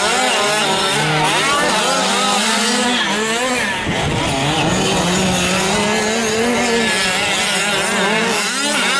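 Several gas-powered 1/5-scale RC trucks racing, their small two-stroke engines revving up and down over one another.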